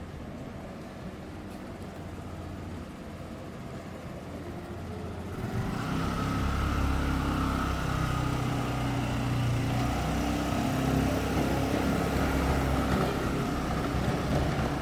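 City street traffic: a vehicle's engine noise grows louder about five seconds in and stays steady and close.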